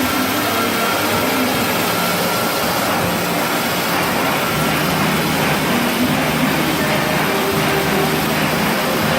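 Automatic toilet-paper roll band saw cutting machine running: a loud, steady mechanical noise with a low hum underneath.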